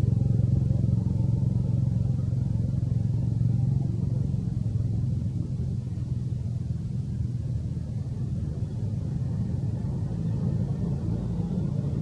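A steady, low engine hum that eases off a little about four seconds in and then holds.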